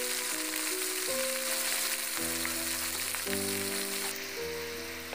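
Ginger-garlic paste frying in hot oil in a wok with chopped onion, garlic and green chilli: a steady sizzle that eases slightly about four seconds in. Background music plays over it.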